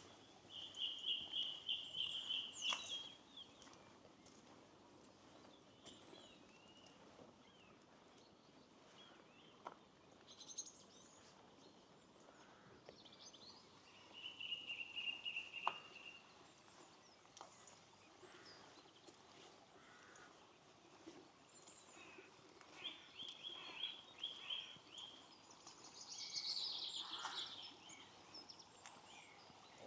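Small birds singing and calling, with three bouts of rapid trilled song and scattered chirps, and a busier flurry of calls near the end.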